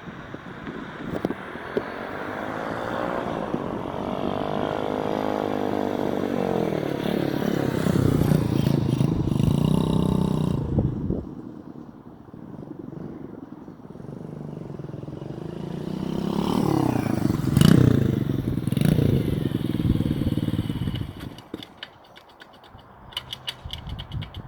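X-Pro X26 125cc pit bike's single-cylinder four-stroke engine running as the bike is ridden, its pitch rising and falling as it speeds up and slows. It is loudest in two long swells with a lull between them, then fades near the end, where a few clicks are heard.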